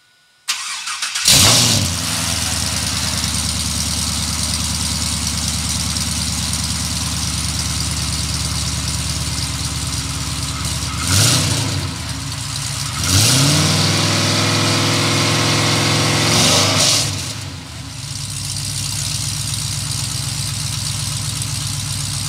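Car engine cold-started through a true dual exhaust with bullet mufflers: the starter cranks briefly and the engine catches about a second in, then settles into a steady, pulsing idle. About eleven seconds in it is blipped once, then revved and held for about four seconds before dropping back to idle.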